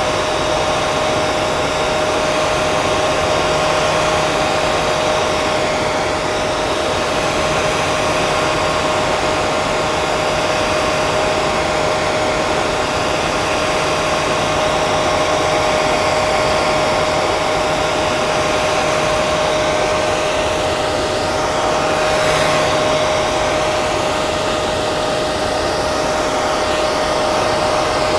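Electric hair dryer running steadily: a constant rush of blown air with a steady motor whine.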